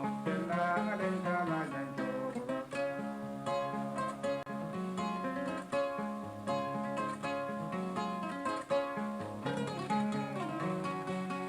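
Kora, the West African 21-string harp-lute, played solo in a steady stream of plucked notes over a repeating bass figure.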